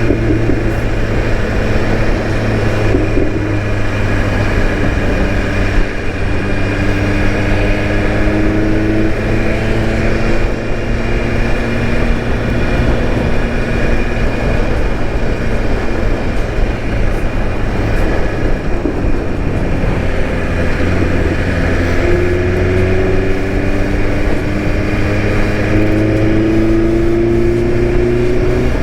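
BMW S1000RR M sport bike's inline-four engine running on the road, its pitch climbing slowly twice as the bike gathers speed.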